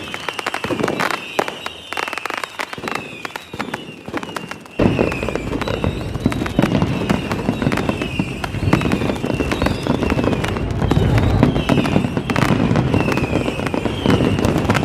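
Fireworks crackling with dense rapid pops, with short falling whistles repeating throughout. About five seconds in the sound suddenly becomes fuller, with deeper booms under the crackle.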